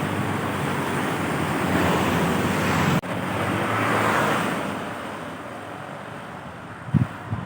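Large road vehicles passing close by: engine and tyre noise swells and fades, breaks off sharply about three seconds in, then another vehicle rushes past and fades away. Near the end, low gusts of wind buffet the microphone.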